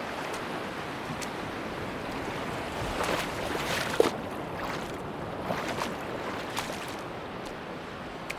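Sea waves washing on a beach, swelling a little about three seconds in. A short sharp click about four seconds in is the loudest moment, with a few fainter ticks around it.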